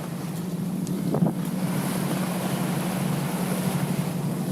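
Sportfishing boat's engine running at speed, a steady low drone that builds a little in the first second or so, with wind noise on the microphone.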